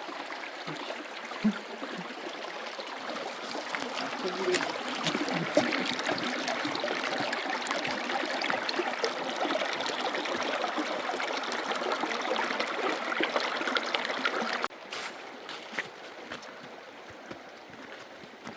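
Steady rush of running water, which cuts off abruptly near the end and leaves a quieter background.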